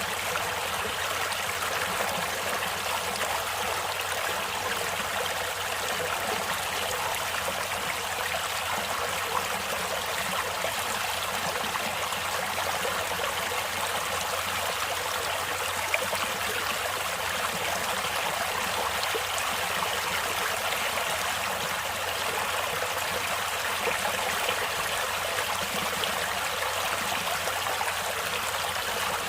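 Steady, unbroken rush and babble of a flowing stream.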